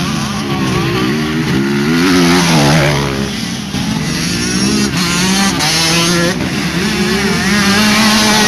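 Motocross bikes racing, their engines revving up and down with throttle and gear changes. A brief louder rise and fall in pitch about two to three seconds in.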